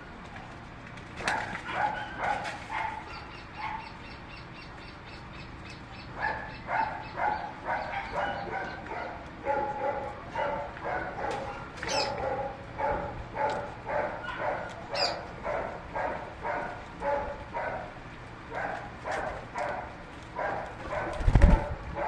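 An animal calling over and over in a steady series, about two short calls a second, with a few brief high chirps among them and a single low thump near the end.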